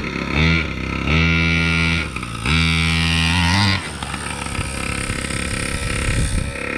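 Gas two-stroke engine of a large-scale RC monster truck revving in three throttle bursts, a short one and then two of about a second each, settling back to a lower idle between and after.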